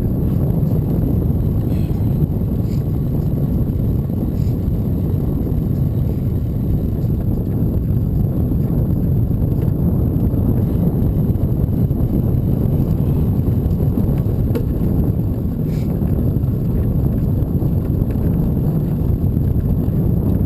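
Steady low wind rumble buffeting the microphone while riding a bicycle, with a few faint ticks.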